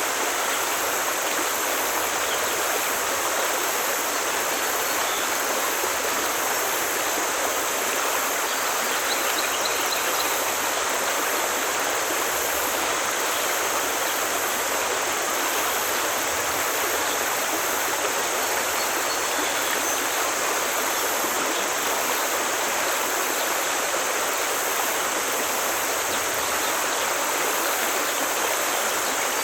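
Forest stream flowing: a steady, even sound of running water with no breaks.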